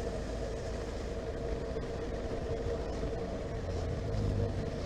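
Honda CB1300SF's inline-four engine running steadily under riding, with wind and road noise, growing a little louder near the end.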